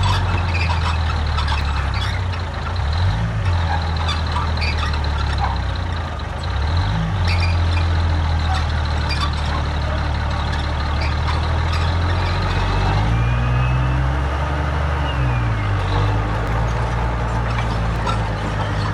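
Heavy diesel earthmoving machinery running loud and steady, its engine note dipping and rising a few times as the revs change.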